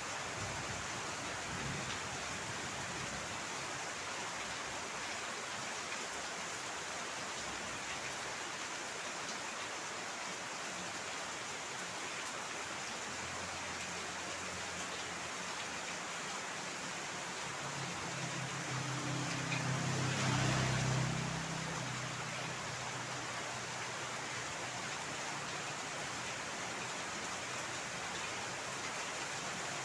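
Steady heavy rain falling. About twenty seconds in, a low rumble swells and fades over a few seconds.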